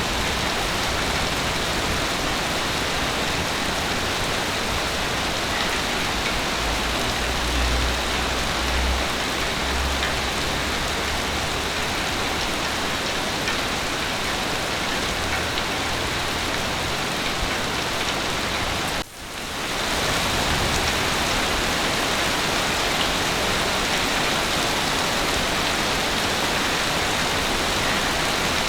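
Steady heavy rain. About two-thirds of the way through, the sound cuts out for a moment and fades back in.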